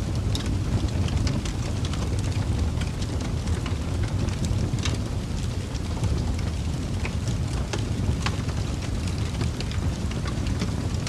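Wood fire burning in a fireplace: a steady low rumble of the flames with frequent small crackles and a few sharper pops of burning wood.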